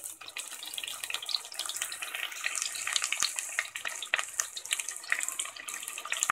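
Sliced onions frying in hot oil and ghee in a pressure cooker: a steady sizzle with dense crackling.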